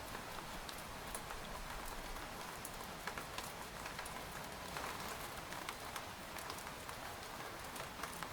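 Steady rain pattering on a tent, with a dense hiss and many scattered individual drop ticks.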